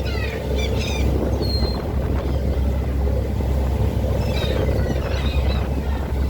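Strong wind buffeting the microphone on a moving boat, over a steady low rumble. Short high chirping calls come near the start and again about four seconds in.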